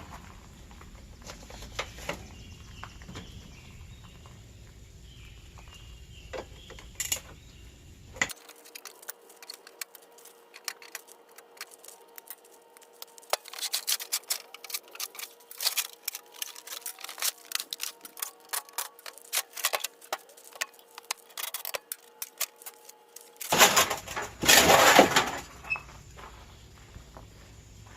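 Scrap metal being handled while air conditioner units are taken apart: scattered metallic clinks and knocks, with a couple of loud, harsh noisy bursts near the end.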